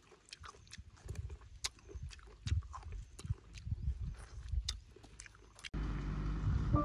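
Close-up eating sounds of someone chewing longan fruit: scattered wet clicks and smacks of the mouth. About a second before the end, music starts abruptly.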